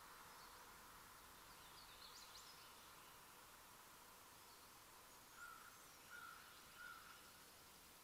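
Faint calls of wild birds over a steady hiss from the trail camera's microphone: a few thin high chirps about two seconds in, then three short, lower calls, evenly spaced under a second apart, in the second half.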